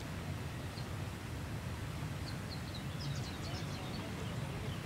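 Steady low outdoor rumble, with a few short high bird chirps and a quick run of them about three seconds in.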